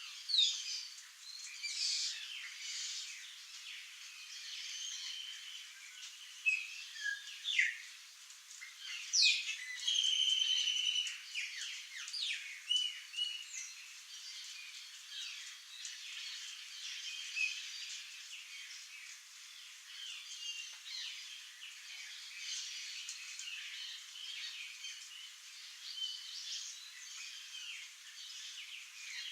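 Several birds chirping, whistling and trilling at once, short high calls overlapping with each other; busiest in the first half, thinner later.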